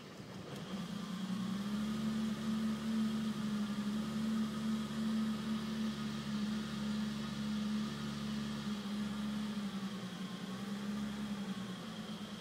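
BMW E34 M5 straight-six engine idling with a steady hum that swells about a second in and eases slightly near the end. The owner's complaint is a rough idle.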